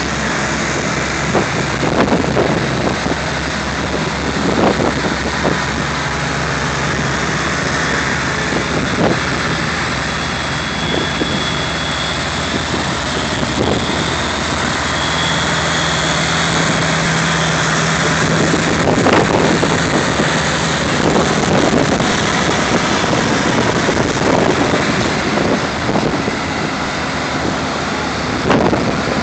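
Vintage tractor engines running steadily, several at different pitches, with wind noise on the microphone.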